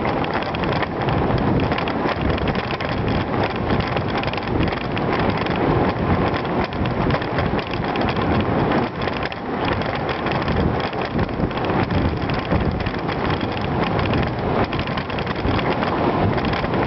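Bicycle riding over a rough, gritty surface: continuous tyre rumble and rattle, with wind buffeting the microphone.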